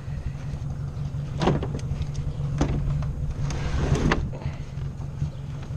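Ford 600 tractor's four-cylinder engine running steadily, with several sharp knocks and clatters over it, the loudest about four seconds in.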